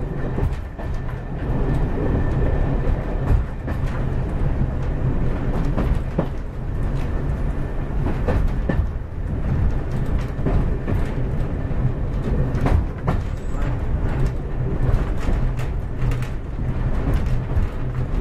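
Cab-end interior of a diesel multiple unit on the move: a steady low rumble of the underfloor diesel engine and wheels on the rails, with scattered clicks and knocks from the track.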